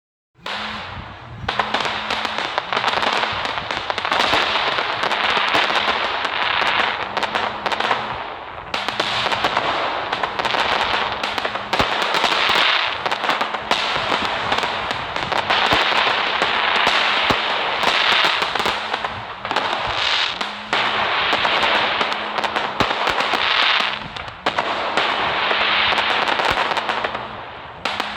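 Fireworks crackling and hissing continuously, with dense rapid pops over a steady hiss, in long runs broken by a few brief dips.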